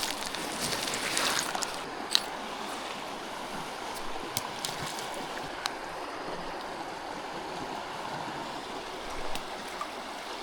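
Creek water running steadily, an even rushing hiss, with a few faint clicks about two, four and a half and five and a half seconds in.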